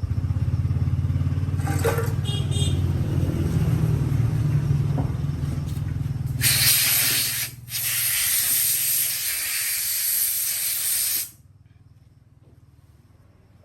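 A machine runs with a low pulsing drone, and about six seconds in a loud, steady spraying hiss starts. The hiss breaks off for a moment, resumes, and cuts off suddenly a few seconds later.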